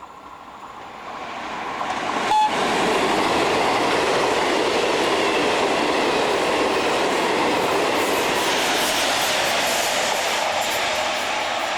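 A train passing close by: its rushing rail noise builds over the first couple of seconds, stays loud and steady, then begins to fade near the end. A brief sharp blip with a short tone comes about two seconds in.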